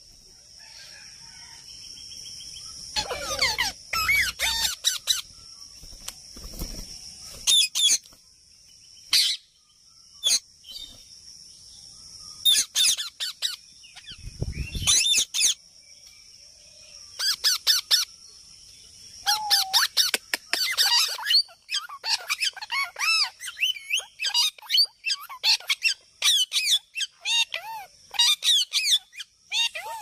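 Birds chirping and squeaking in quick clusters with short pauses, the calls coming thickest near the end. A steady high hiss runs under the first two-thirds, and there are a few brief low rumbles.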